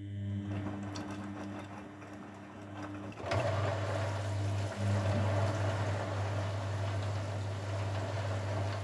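Grundig washing machine running: a steady mains-frequency hum from its motor or pump starts up. About three seconds in there is a click, and the sound of rushing water joins the hum and stays louder.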